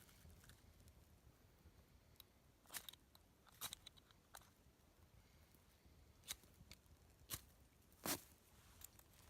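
Wood fire crackling faintly, with scattered sharp pops at irregular intervals, the loudest about eight seconds in.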